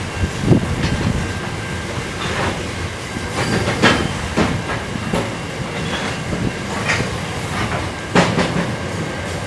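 Grain hopper wagons of a freight train rolling slowly past, their steel wheels clacking over the rail joints at irregular intervals over a steady rumble.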